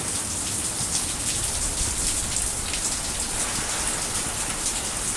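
Steady rain falling, a continuous hiss with many individual drops pattering.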